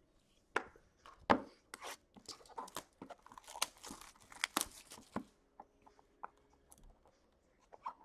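Packaging being torn open and crinkled by hand: a run of sharp rips and rustles for about five seconds, then a few light clicks and taps.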